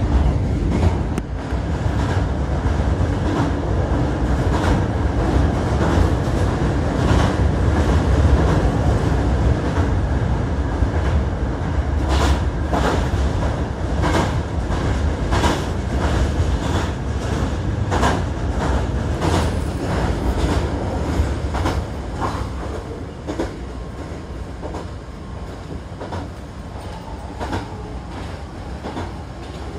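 Hankyu electric train heard from inside the car, running with a heavy low rumble. About halfway through comes a quick run of wheel clacks over rail joints and points. The sound grows quieter toward the end as the train slows for its station stop.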